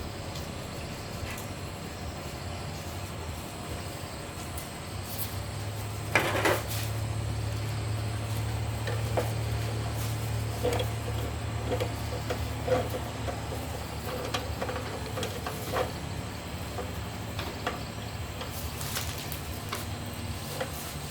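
Scattered clinks and knocks of metal parts being handled over a low steady hum, with the loudest knock about six seconds in.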